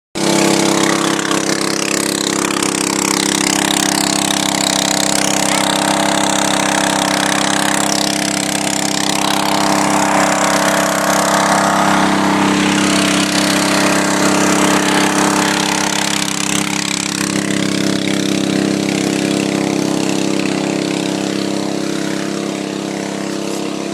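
Small engine of an Alkon portable fire-fighting pump running at a steady speed.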